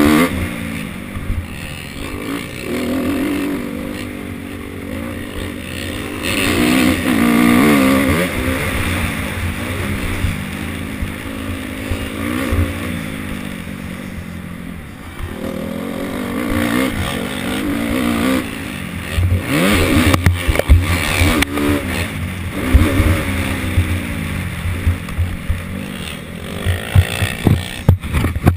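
Motocross dirt bike engine revving as it is ridden, its pitch repeatedly rising and falling with throttle and gear changes. Sharp low thumps come and go in the second half.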